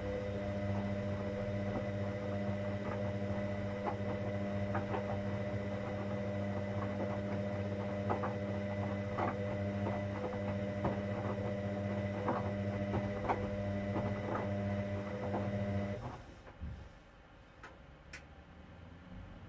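A Hoover Dynamic Next washing machine's pump humming steadily, with small clicks and splashes of water. The hum cuts off abruptly about 16 seconds in, leaving a few faint ticks.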